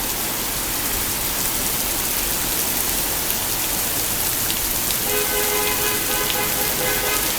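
Rain pouring down in a steady hiss after a tornado storm. About five seconds in, a steady held tone of several pitches joins it for about two seconds.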